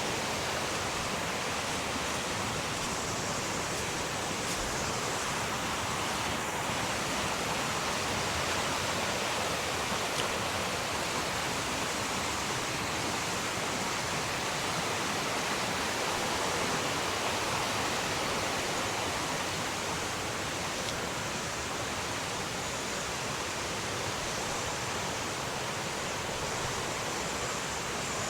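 Fast-flowing river rushing over rocks: a steady, unbroken wash of water noise.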